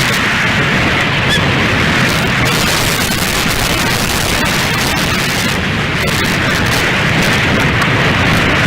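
Strong wind buffeting the outdoor nest-camera microphone: a loud, steady rush of noise that swells and eases a little.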